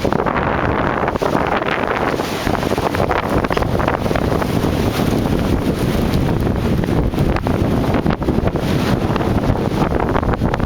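Strong, gusting storm wind buffeting the microphone: a loud, continuous rumbling rush that swells and eases in gusts.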